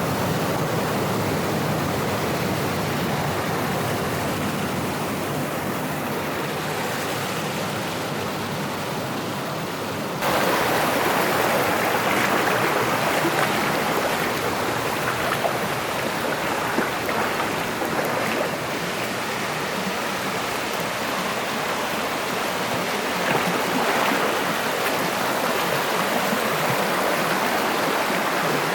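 Rushing mountain-stream water, a steady rush that jumps suddenly louder and brighter about ten seconds in.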